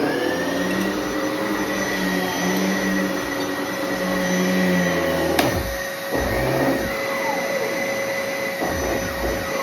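Bissell Heavy Duty (93Z6) bagless upright vacuum running with a steady high whine. About five and a half seconds in there is a sharp click and the motor sound briefly dips and wavers before it recovers. The owner takes this for something having shorted out.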